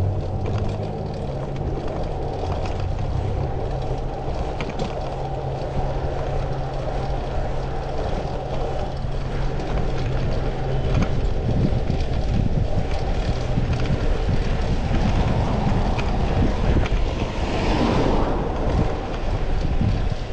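Wind noise on the microphone of a moving bicycle amid city traffic, with a low steady hum through the first half. A louder rush swells and fades near the end, like a vehicle passing.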